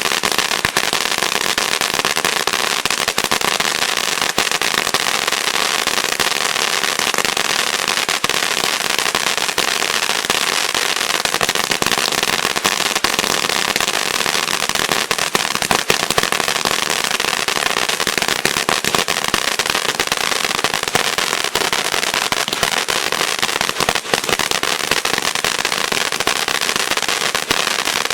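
Tank-shaped ground fountain firework (category F2) burning: a steady rushing hiss of sparks, thickly peppered with fine crackling pops.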